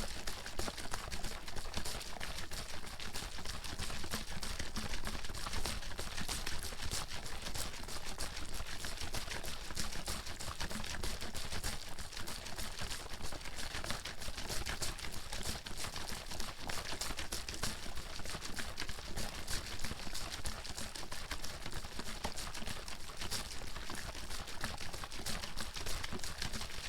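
Water bottle being shaken continuously: quick, steady sloshing and splashing of the water inside, without a break.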